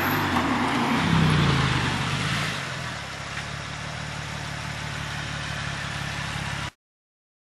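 Porsche 996 Carrera's flat-six running through a Fabspeed Maxflo cat-back muffler at a steady cruise, with no resonance. The note swells briefly about a second in, then eases to a quieter, even drone and cuts off suddenly near the end.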